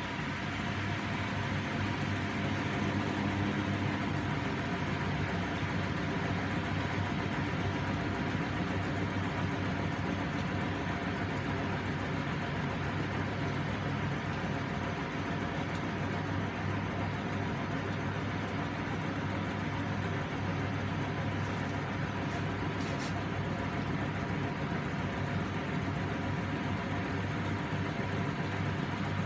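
Hoover Milady washing machine on its first intermediate spin: the drum spins at a steady speed with a constant motor hum, building up over the first few seconds and then holding even.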